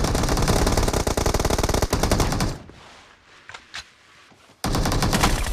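Automatic gunfire in a video game, in rapid continuous bursts. One burst stops about two and a half seconds in, there are a couple of faint ticks in the lull, and another burst starts about a second before the end.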